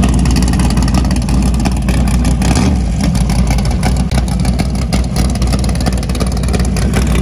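Fox-body Mustang drag car's engine idling loudly and steadily, just after being started.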